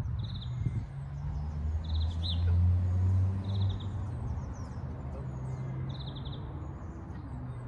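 A small bird repeating a short high trilling call every second or so, over a low droning hum that swells to its loudest about two to three seconds in.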